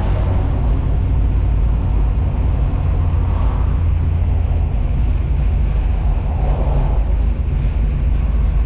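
Small-block Chevy V8 in a 1964 Buick Special running steadily, heard from inside the cabin as a low, even drone with road noise.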